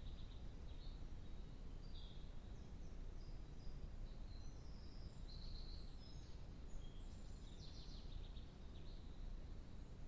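Faint songbird notes, thin and high at changing pitches, with a quick run of ticking notes about eight seconds in, over a steady low background rumble.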